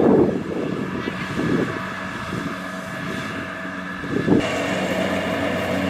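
Kubota DC-70 Plus combine harvester running with a steady diesel engine hum, with a loud rough burst right at the start and a shorter one a little past four seconds in. The engine's tone changes abruptly just after the second burst.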